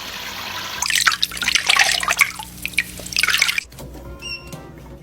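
Water running from a tap, steady at first, then splashing and dripping loudly from about a second in until it drops away a little past three and a half seconds.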